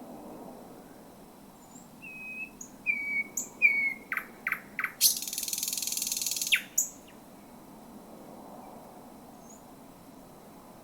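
Thrush nightingale singing one song phrase about two seconds in. It opens with a few short whistled notes, then a run of loud clicks, then a harsh rattling trill of about a second and a half that ends on a final click. A low steady background rumble runs underneath.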